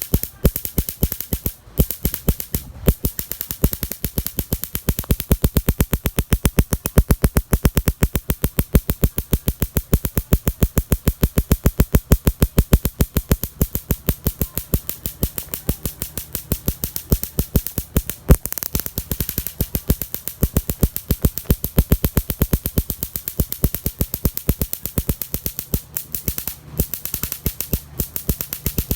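Miniature motorcycle's small engine running, heard as a rapid, even train of sharp pops, a little louder in the middle, with one louder pop about eighteen seconds in.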